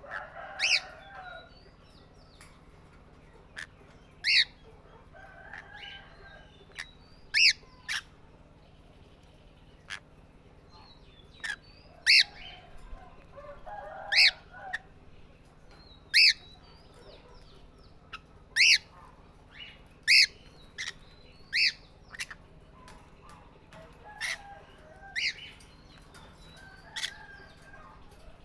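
Pet parrots calling: short, sharp, loud chirps repeated every second or two, with softer chattering between them.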